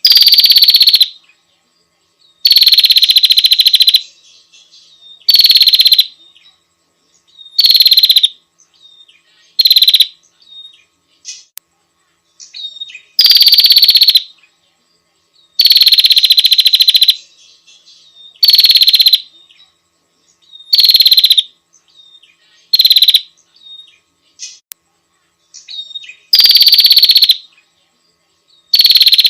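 Female prinia (prenjak) calling to a male: a loud, rapid rattling trill about a second long, repeated every two to three seconds, about a dozen times.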